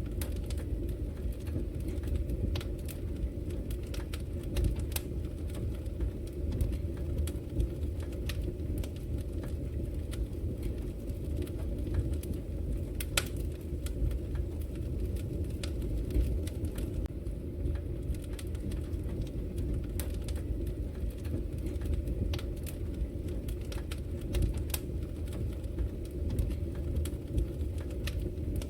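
Wood fire crackling: sharp pops and snaps scattered irregularly over a steady low rumble.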